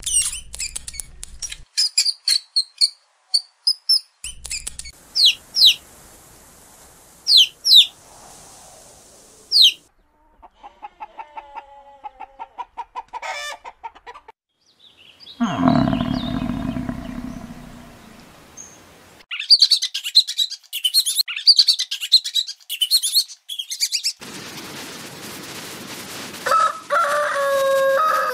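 A string of animal calls: many short, high bird chirps, a run of rapid pulsed calls, and a louder, lower, harsher call about halfway through. Chicken calls with falling ends come near the end.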